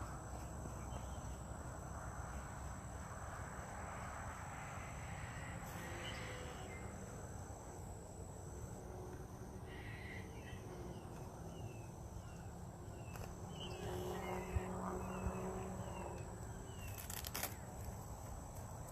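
Open-air ambience in a wetland preserve: a steady low rumble under a bird calling a series of short, quick, falling chirps, several a second, mostly in the second half. A faint steady high-pitched insect drone runs underneath, and a couple of brief knocks come near the end.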